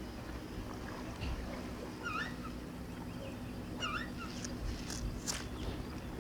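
Seagulls calling: two short, wavering cries about two and four seconds in, with fainter calls between, over a steady low rumble of wind or surf.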